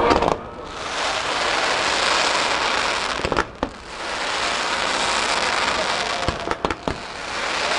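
Fireworks crackling densely and continuously, with sharp bangs about three and a half seconds in and a quick cluster of them around six and a half seconds.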